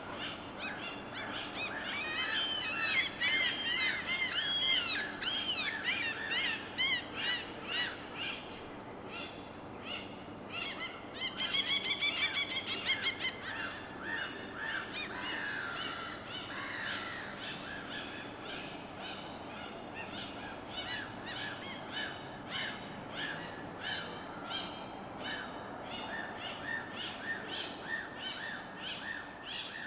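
Several birds calling over a steady background hiss. A flurry of rising-and-falling calls comes a few seconds in, then a rapid chattering run about twelve seconds in, then a string of short repeated calls.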